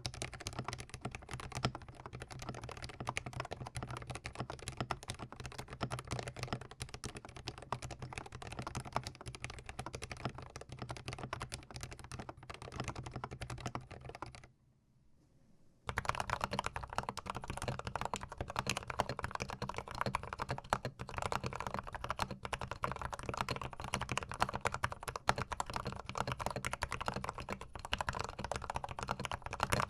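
Rapid typing on a GMMK Pro mechanical keyboard, a dense stream of key clacks on Gateron Yellow linear switches. After a brief silence about fourteen and a half seconds in, the typing resumes on Gateron Ink Black linear switches.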